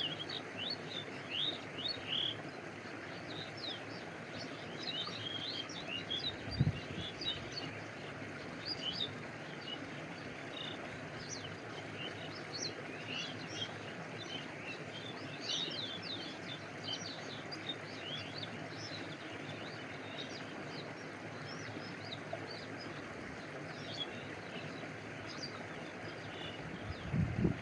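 Stream water flowing steadily, with birds chirping in quick high calls throughout. A low thump comes about six and a half seconds in, and another near the end.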